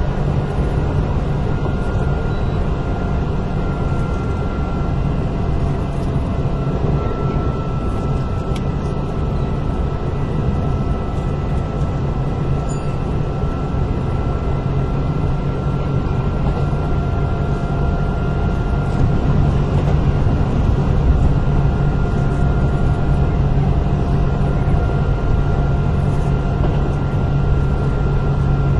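Kintetsu 8000 series electric train running at a fairly steady speed, heard from inside car 8079: a constant low rumble with a faint steady whine that drifts slightly in pitch, getting a little louder about two-thirds of the way through.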